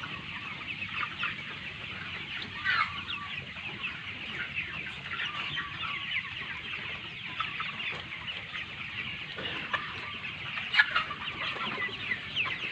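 A large flock of chickens calling all at once: a dense, continuous chorus of many overlapping short cheeps and clucks, with a few louder calls standing out about three seconds in and again near the end.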